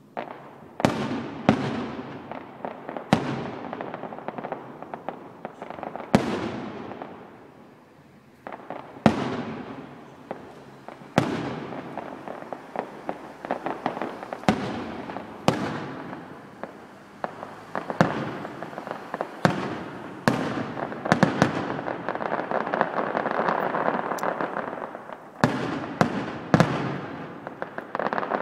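Aerial fireworks display: shells bursting in a rapid series of sharp bangs, each with an echoing tail, over steady crackling. The bangs pause briefly about eight seconds in, and a dense stretch of crackling comes about two-thirds of the way through.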